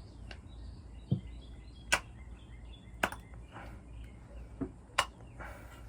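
Short, sharp clicks and taps of small plastic model-kit parts being pried and handled, about five spread over several seconds, over a low steady hum.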